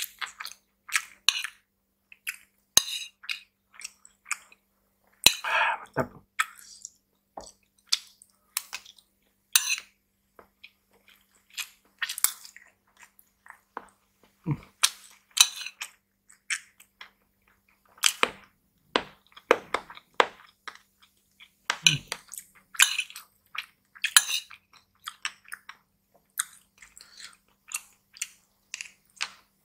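Close-miked chewing and mouth smacking of rice and vegetables, in irregular short bursts with pauses. A metal spoon now and then scrapes and clinks against a ceramic bowl.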